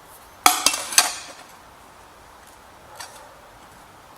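Metal marking-out tools clinking as they are handled and set down: several sharp clinks close together in the first second, then one faint tick about three seconds in.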